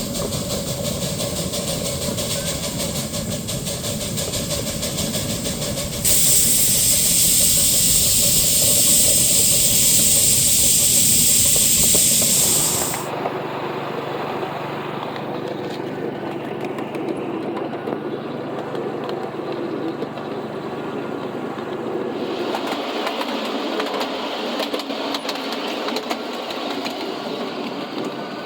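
7.5-inch gauge miniature train running, heard in several short back-to-back clips. From about six seconds in there is a louder, steady hiss, which stops abruptly about seven seconds later.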